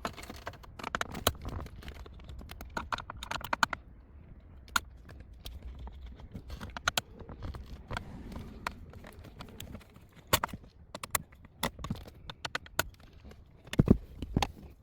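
Phillips screwdriver backing out the screws that hold a car's Uconnect radio head unit in the dash: irregular small clicks and taps of the tool and screws, with one louder knock near the end.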